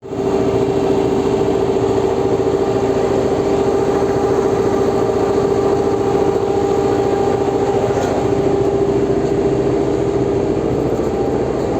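Engine of a river ferry boat running steadily, an even drone holding one pitch throughout.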